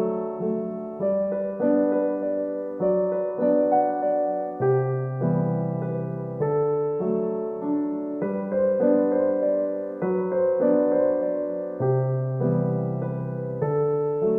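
Background solo piano music: a gentle melody over sustained chords, with a new note or chord struck about every half second to a second.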